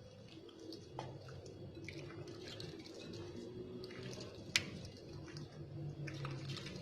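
Raw chicken pieces being mixed in a thick, wet marinade with cornflour in a bowl: soft squelching with scattered small clicks, and one sharper click about four and a half seconds in.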